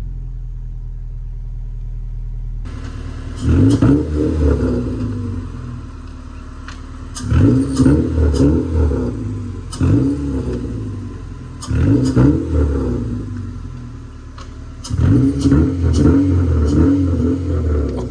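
K20-swapped Honda Civic engine revved in several short bursts, its pitch rising and falling with each blip, with steadier running between the bursts.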